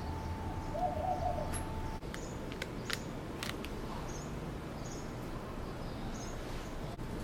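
A steady hum with a thin high tone that cuts off about two seconds in, then a few light clicks and faint, high chirps like small birds.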